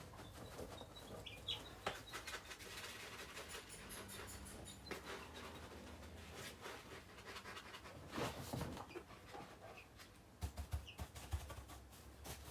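Faint scratching and rustling with a few short, high peeps from baby chicks.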